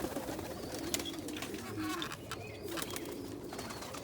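Pigeons cooing in a loft: low, repeated murmuring calls, with a few light clicks among them.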